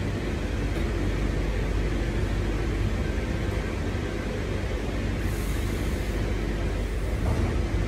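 Cabin ride noise of a chopper-controlled C set double-deck electric train in motion: a steady low rumble of wheels and running gear. A brief hiss comes about five seconds in.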